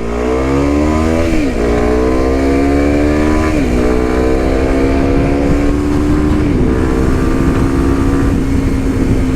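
Kawasaki Ninja 125's single-cylinder engine accelerating through the gears: its pitch climbs, drops sharply at three upshifts, about one and a half, three and a half and six and a half seconds in, then holds nearly steady at cruising speed.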